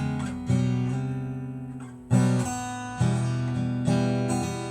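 Acoustic guitar strumming chords between sung lines, a few strums each left to ring and fade.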